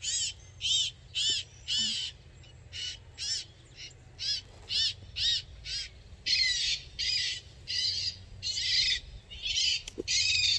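A bird calling over and over: short high calls about two a second, running into longer calls in the second half.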